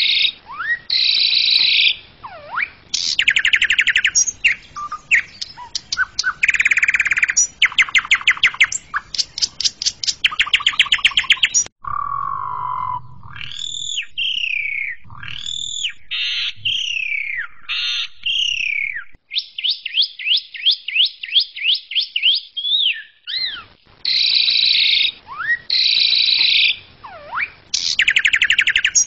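Asian pied starling singing a long, varied, busy song: harsh rapid rattles and trills alternating with slurred whistles that sweep up and down, then a fast even trill, and the opening chattering phrases come round again near the end.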